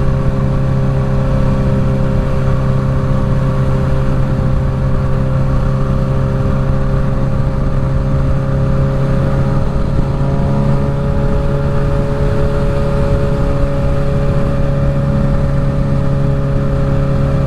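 Suzuki GSX-S1000's inline-four with a full Dominator exhaust running at a steady highway cruise, its drone holding a nearly constant pitch that creeps up slightly about ten seconds in. It is heard through a helmet mic under the rider's chin, with heavy wind rumble.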